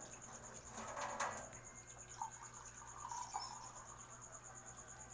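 Faint, steady high-pitched chirping from an insect, an even pulsed note about seven times a second, with a brief soft rustle about a second in.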